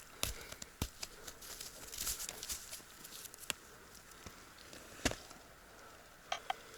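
Footsteps through dry fallen leaves and twigs on the forest floor: irregular crackling with a few sharper snaps.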